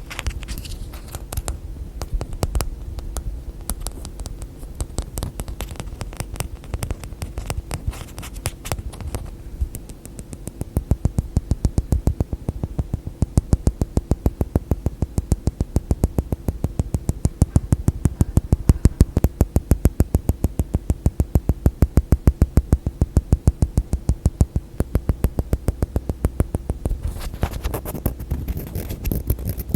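Rapid hand tapping on small objects, close-miked: dense and uneven at first, then from about ten seconds in a fast, even run of crisp taps.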